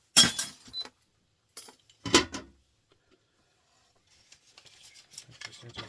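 Two loud metallic clanks, about two seconds apart, as small electric motors salvaged from a printer are set down on weighing scales, followed by faint light clicks near the end.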